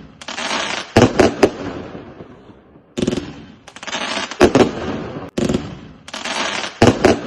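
A 100-shot salute fan cake firing in volleys. About every two and a half seconds a group of shots launches, followed a moment later by a cluster of sharp, loud salute bangs that echo as they die away.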